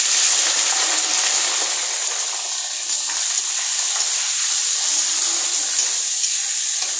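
Small unpeeled potato pieces sizzling in hot oil in a kadhai, just tipped in and stirred with a metal spatula. The sizzle is loudest at first and eases slightly.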